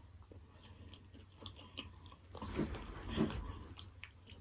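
A person chewing food with small wet mouth clicks, with a few louder bites and smacks about halfway through.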